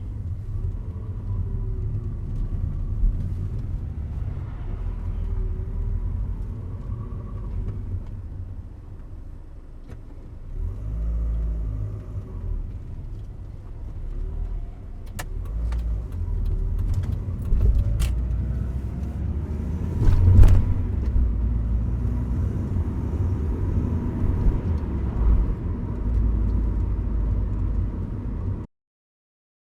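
Mazda MX-5 NA Miata's four-cylinder engine pulling through low gears, with a whine over the engine's rumble that rises and falls in pitch as the revs pass around 2,000 rpm. A few sharp clicks come through in the second half, and the sound cuts off shortly before the end.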